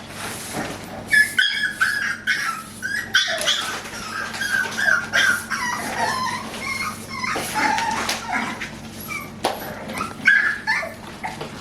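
American bully puppies play-fighting, letting out many short, high yelps and whimpers in quick succession.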